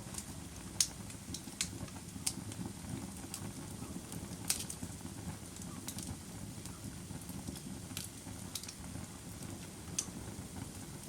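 Wood fire crackling: sharp pops at irregular moments over a low, steady rumble of the burning fire.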